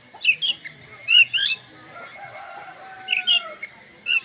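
A songbird giving short, bright chirping phrases in several bursts. Partway through, a rooster crows faintly once in a long, drawn-out call.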